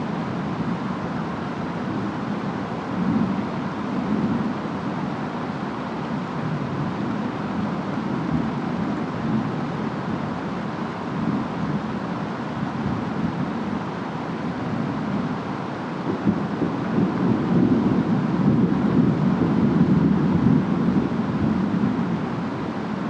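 Steady storm noise of wind and rain with a deep rumble, growing louder in the second half like distant thunder rolling.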